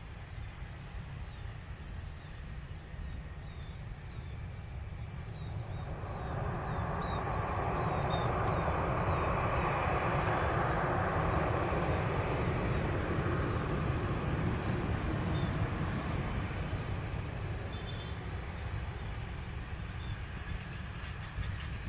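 Low-flying aircraft passing over. Its noise swells over several seconds, peaks about ten seconds in and then slowly fades, over a steady low rumble.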